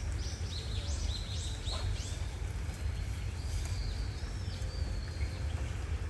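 A bird calling, with a quick run of short, falling, high chirps in the first two seconds and then a longer call near the middle. Under it runs a steady low rumble.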